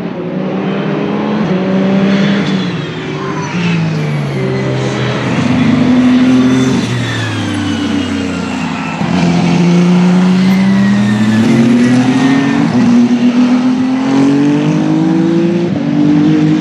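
Several Ferrari racing cars running at speed on track. Their engine notes overlap, climbing and falling in pitch as they pass and shift gears.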